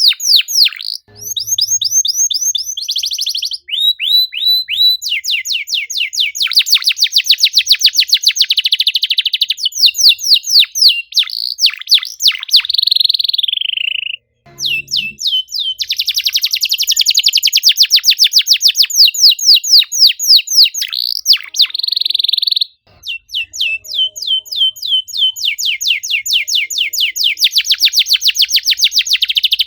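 Male domestic canary singing a dense, fast song: long rolls of rapidly repeated chirps and whistled trills, at times falling in pitch. The song breaks off briefly about fourteen and twenty-three seconds in.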